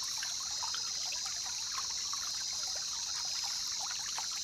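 Rainforest ambience: trickling, dripping water with many small irregular drips, under a steady high-pitched insect chorus.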